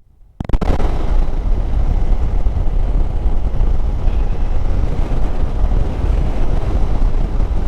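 Steady wind rush and engine and road noise from a motorcycle ridden at speed, heavy in the low end. It starts after a brief half-second drop-out at the very beginning.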